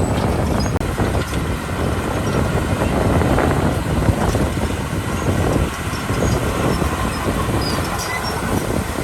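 Crawler bulldozer, a Komatsu D31P, working: its diesel engine runs under load while its steel tracks clank and rattle.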